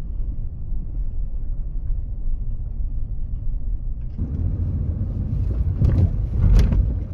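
Low rumble of a vehicle driving on the road. About four seconds in it grows louder, with a few sharp noises near the end.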